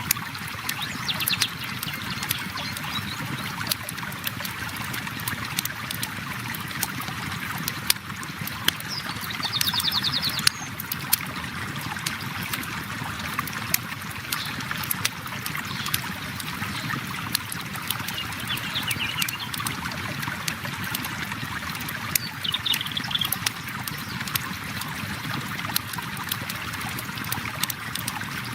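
A river flows steadily while a campfire crackles with frequent sharp pops. A few brief high bird calls come and go.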